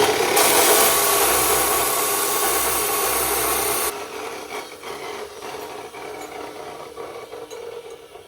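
Power tool cutting or grinding steel for gusset plates: a loud, even grinding noise that starts suddenly, runs for about four seconds and stops abruptly, then a fainter steady hum with small clicks.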